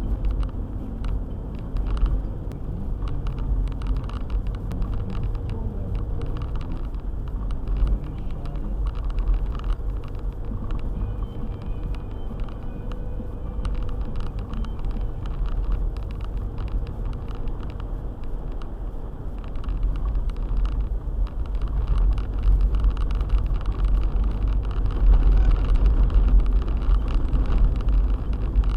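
A car driving on a snow-covered road: a steady low rumble of engine and tyre noise with a scatter of small ticks and knocks, growing louder near the end.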